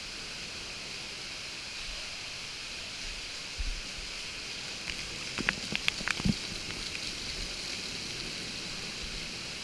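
Lazy-river water rushing steadily, with a quick run of sharp splashes a little past the middle.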